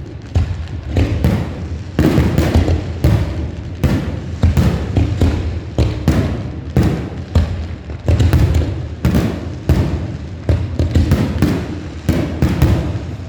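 Aerial fireworks shells bursting in quick succession, about two loud bangs a second, each trailing off in echo.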